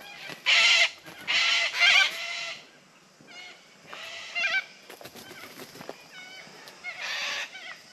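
Wetland birds calling with loud, harsh honks: one about half a second in, a pair around one and a half to two seconds, and another near the end, with quieter wavering calls between.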